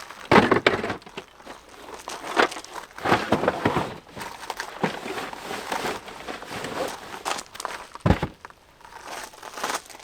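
Crinkling and rustling of something being handled in irregular bursts, with a dull thump just after the start and another about eight seconds in.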